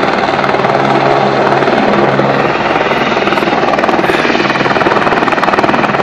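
Rescue helicopter's rotor and engine running loud and steady.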